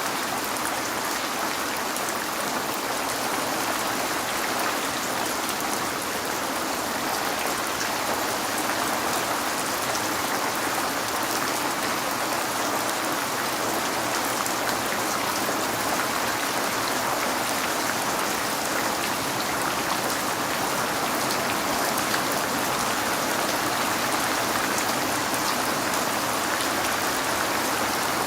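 Steady rain falling and pattering on a window, with fine drop ticks over an even hiss.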